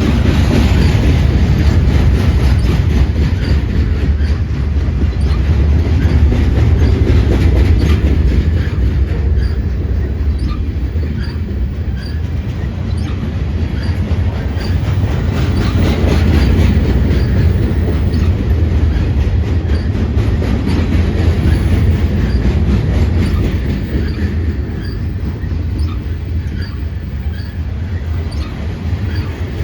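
Norfolk Southern freight train loaded with pipe rolling past, a steady heavy rumble of steel wheels on the rails.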